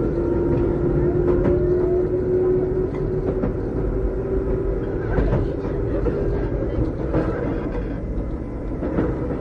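Keikyu old 600-series electric train car 605, heard from inside, running with its Toyo Denki traction equipment giving a steady whining tone over a low rumble. The wheels click over rail joints a few times.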